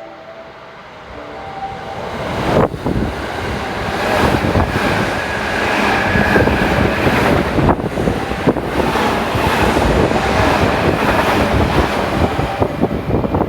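A 12-car JR West 221 series electric train passing through a station at speed without stopping: the rush of the train builds from about two seconds in and stays loud, with a dense, rapid clatter of wheels on the rails.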